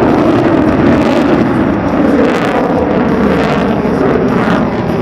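Helicopter flying an air show display: steady, loud rotor and turbine noise.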